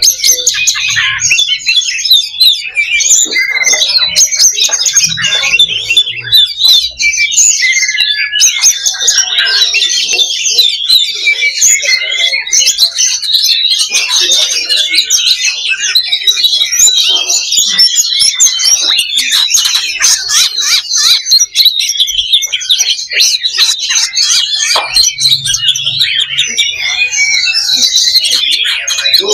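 Several oriental magpie-robins singing at once: a loud, dense, unbroken stream of quick chirps, trills and whistles.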